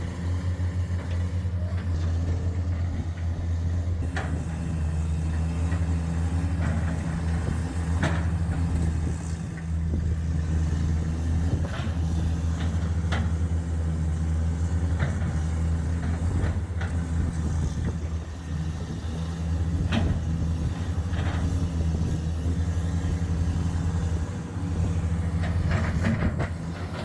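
Heavy machinery's engine running steadily with a low drone, while short metallic clanks and knocks come at irregular moments, about a dozen in all.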